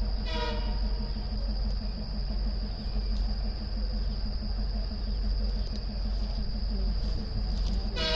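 Train running, a steady low rumble with a thin, steady high-pitched whine over it.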